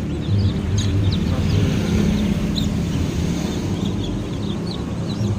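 A crowd of day-old kampung chicks peeping, many short high chirps overlapping, over a steady low hum.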